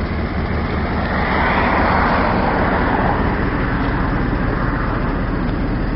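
Steady engine and road noise of a 1998 Dodge Dakota pickup on the move, swelling slightly between about one and three seconds in.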